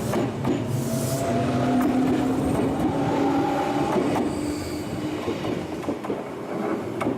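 Shizuoka Railway 1000-series electric train running past, with a steady whine and wheels clacking over rail joints. The sound eases off after about four seconds.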